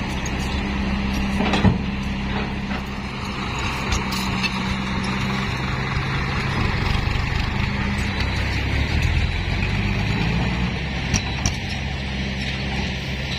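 Heavy diesel dump truck engine running steadily, with a sharp knock about two seconds in and two lighter clicks near the end.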